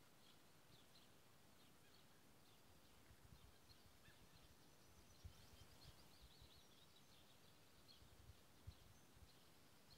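Near silence: faint, distant birds chirping in short scattered calls over a low background hiss, with a few soft low thumps about halfway through and near the end.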